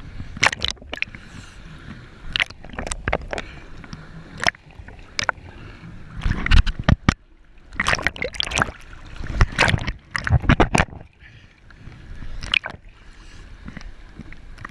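Water splashing and sloshing with gurgles and sharp irregular knocks, the loudest gushes clustered around the middle.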